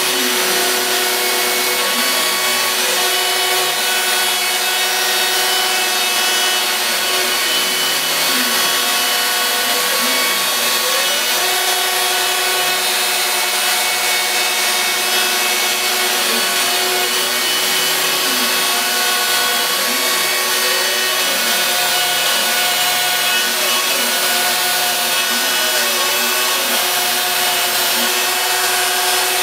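Home-built CNC router cutting MDF: the router spindle runs steadily as the bit works the material. Over it, the stepper motors whine in pitches that rise and fall again and again as the axes speed up and slow down along the curves of the cut.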